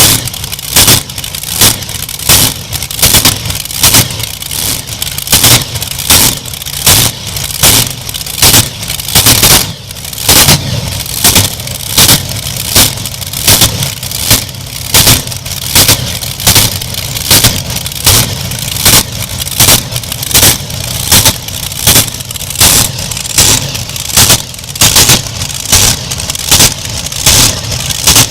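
Pulling tractor engine running steadily, with loud sharp cracks repeating evenly about three times every two seconds.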